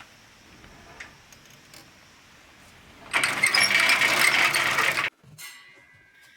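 Homemade band sawmill machinery running loudly for about two seconds, starting about three seconds in and cutting off suddenly, with a high ringing tone fading away after it.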